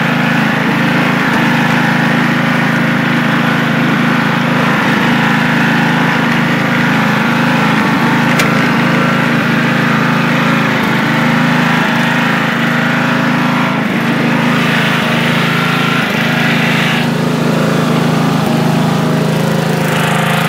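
A 1985 Craftsman lawn tractor's 11-horsepower engine running steadily at an even speed.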